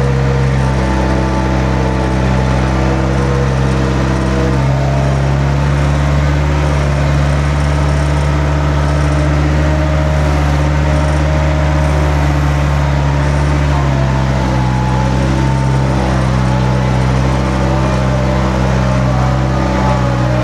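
A large engine running steadily and loudly. Its pitch steps up about four and a half seconds in and drops back about fourteen seconds in, as the engine speed or load changes.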